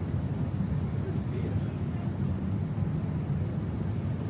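Steady low rumble of a lake passenger boat's engine, with faint voices in the background.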